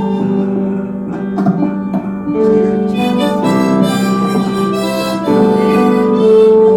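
Solo harmonica playing a slow melody in G, holding long notes and moving to a new note about every second.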